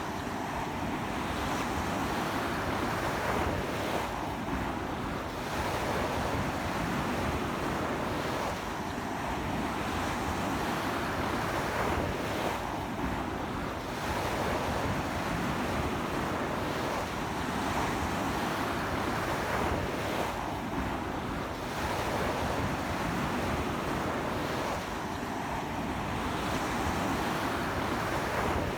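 Ocean surf breaking and washing onto a beach in a strong sea wind: a continuous rushing wash that swells and eases every few seconds.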